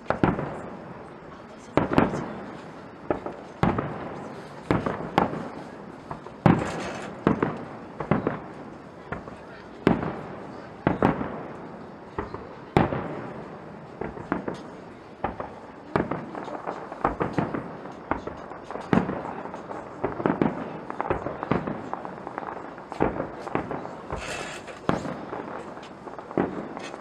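Aerial fireworks shells bursting one after another, a bang about every one to two seconds, each trailing off in an echo, with crackling between the bursts.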